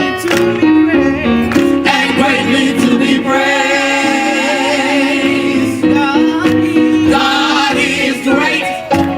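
Gospel choir singing with instrumental accompaniment: mixed male and female voices holding and bending sustained notes over a steady backing.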